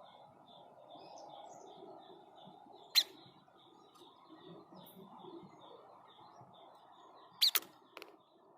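White-chested babbler, the 'sniper' bird, giving very short, sharp 'shot' calls: one about three seconds in, then a quick double and a single near the end. They stand out over faint, evenly repeated high chirping.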